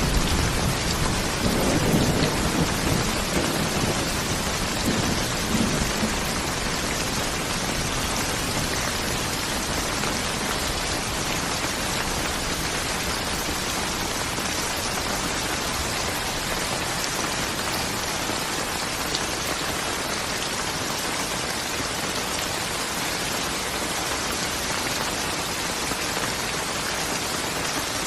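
Steady rain falling, a dense even hiss, with a low rumble of thunder over the first few seconds that dies away, leaving only the rain.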